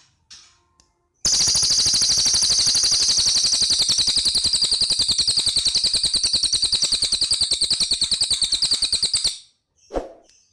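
A cililin bird singing one long, very fast, even trill of high notes that starts about a second in, lasts about eight seconds and stops sharply, followed by one short call near the end.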